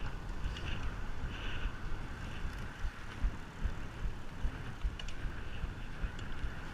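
Wind buffeting a microphone on a moving bicycle, an uneven low rumble, with a fainter steady hiss above it.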